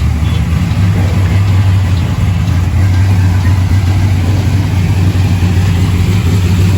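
Car engine idling close by, a steady low rumble.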